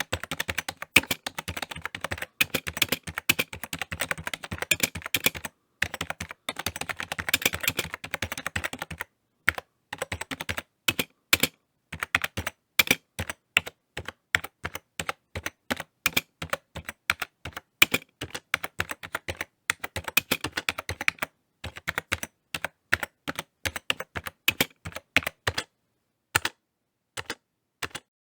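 Typing on a computer keyboard: a rapid, irregular run of key clicks that thins out after about nine seconds into slower, halting keystrokes with short pauses.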